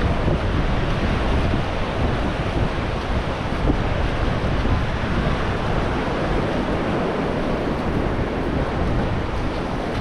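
Ocean surf washing onto the beach, with wind buffeting the microphone in a steady rumble.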